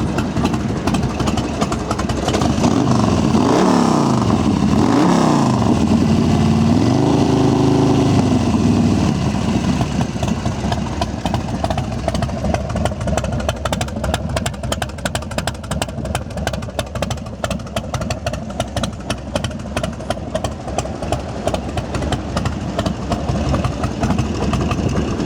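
2005 American Ironhorse Legend's 111-cubic-inch S&S V-twin engine running through a 2-into-1 exhaust: revved twice a few seconds in, held at higher revs for a couple of seconds, then settling into a steady idle. It starts right up and has been checked over in the shop.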